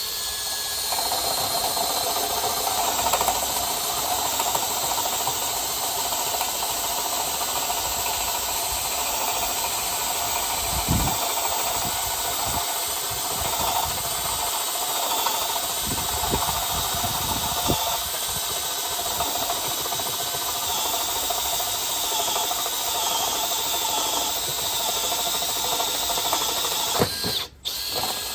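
Makita XPH14 18V brushless drill in drill mode (no hammering) at first speed, driving a dull 1.5-inch spade bit through pressure-treated lumber: the motor runs steadily under heavy load for nearly half a minute, with a few low thumps as the bit bites. It stops briefly near the end, starts again for a moment, then stops.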